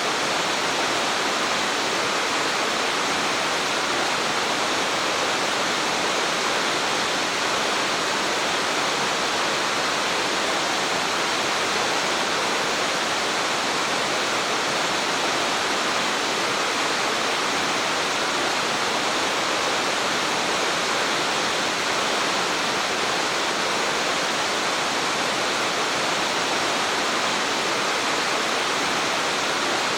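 Rushing water, a steady unbroken rush.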